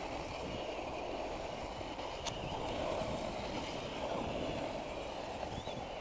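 Electric radio-controlled short course truck running on a dirt track: a steady motor whine mixed with tyre and dirt noise, with one sharp click about two seconds in.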